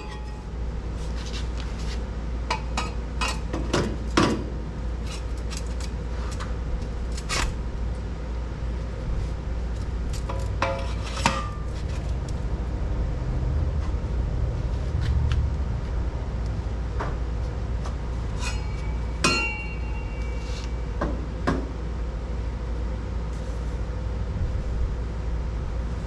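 Steel exhaust tubing being handled and fitted, with scattered metal clinks, taps and clanks over a steady low hum; one clank rings on briefly about three-quarters of the way through.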